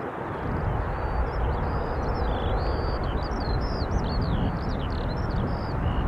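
Birds chirping and whistling in quick, varied notes over a steady low rumble.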